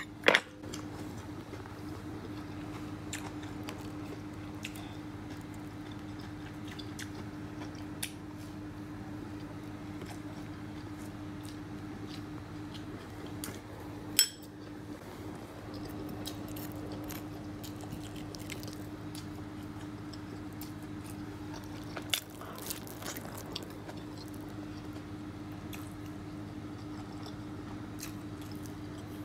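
Close-miked chewing and biting of fried chicken and cabbage salad, with small wet and crunchy mouth sounds. A fork knocks sharply against the plate a few times, loudest near the start, about halfway through, and about three-quarters of the way in. A steady low hum runs underneath.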